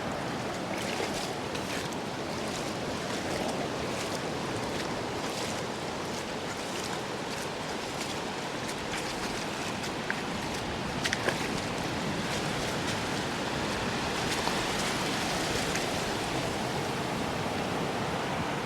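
Surf breaking and washing up a sandy beach: a steady rush of waves, with a few brief sharp clicks about ten to eleven seconds in.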